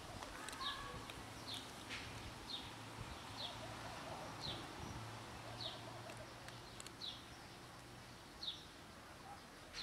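A bird repeating a short, high, falling chirp about once a second, over a faint outdoor background.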